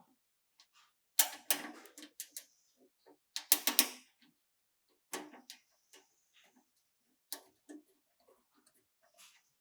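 Irregular clicks and short clattering knocks of computer hardware being handled and fitted, with the loudest clusters about a second in and just before the four-second mark.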